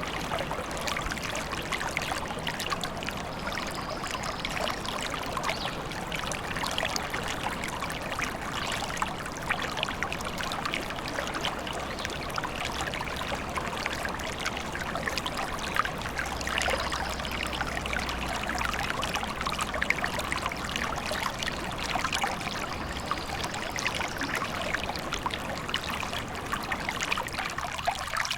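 A stream flowing and trickling, a steady babble of running water.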